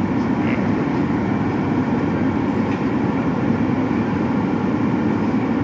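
A steady, loud low rumble with no breaks.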